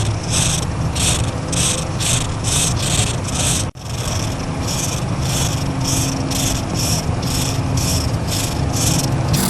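Felt-tip marker nib rubbing across paper in quick back-and-forth colouring strokes, about three a second, over a steady low hum. The sound drops out for an instant about four seconds in.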